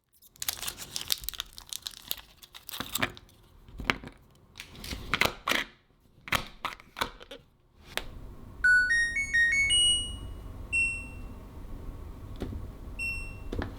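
Paper or packaging crinkling and rustling as it is handled, in irregular bursts. Then a short rising electronic chime melody plays, followed by a few single beeps over a steady low hum.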